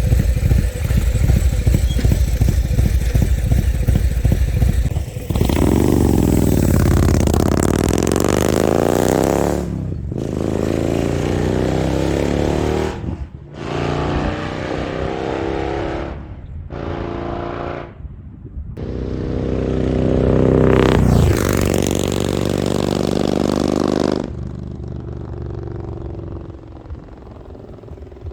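Harley-Davidson Road Glide Special's Milwaukee-Eight V-twin, with an SS 475 camshaft and Mutazu 2.0 megaphone slip-on exhausts, under way on the road. A low rumble gives way about five seconds in to a hard pull that rises in pitch, broken by several short dips like gear shifts. A second pull builds from about 19 s in, and the engine eases off to a lower, quieter run near the end.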